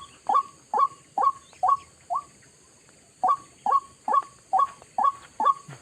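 White-breasted waterhen (ruak-ruak) calling: a series of sharp, evenly repeated notes about two a second, breaking off for about a second partway through and then resuming.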